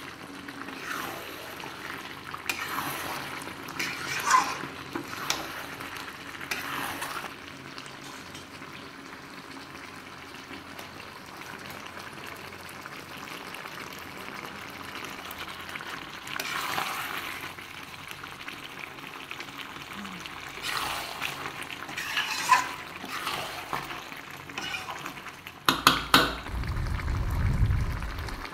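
Chicken and potato curry sizzling in a kadhai of oil, a steady frying hiss, the masala cooked to the stage where the oil has separated. A spoon stirs and scrapes against the pan now and then, and near the end there are a few sharp knocks and a low rumble.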